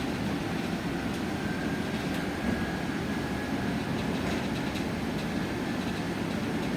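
Inside an electric bus under way: a steady rumble of tyres and road through the cabin, with a faint thin whine running above it.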